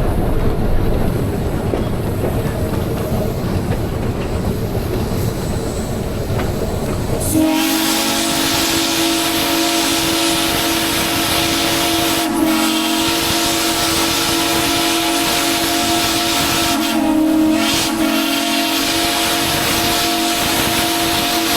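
Rumbling train noise, then about seven seconds in a steam locomotive whistle starts and blows one long, steady chord that wavers slightly a few times.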